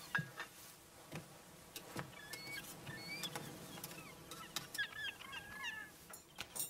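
Birds chirping in short rising and falling notes, busiest about two thirds of the way through, with a few soft thumps and clicks.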